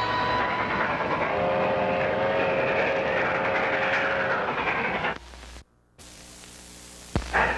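Moving train running with a steady rumbling clatter, and a held chord of several steady tones over it for about three seconds. About five seconds in the sound drops away to a faint hum and briefly to silence, then comes back with a click and the train noise near the end.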